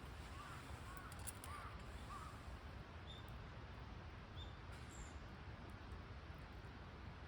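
Faint bird calls: a run of four or five short calls in the first two seconds, then a few brief, high chirps, over a steady low background noise.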